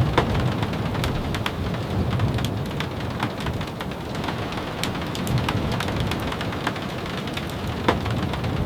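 Steady rain with a low rumble underneath, and a wood fire crackling in scattered sharp pops, one louder pop near the end.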